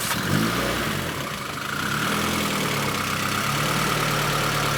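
A 2007 Toyota Corolla rally car's engine just after it fires from cranking: the revs flare and wobble for a couple of seconds, then settle into a steady idle, with a steady high whine over the engine note.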